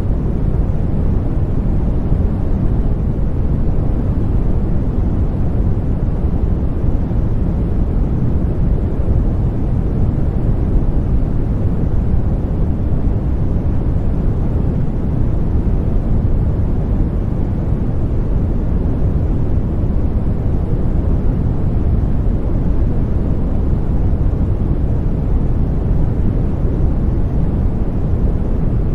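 Continuous white-noise sleep sound: a steady, even rush weighted toward the low end, deep and rumbling rather than hissy, with no changes or events.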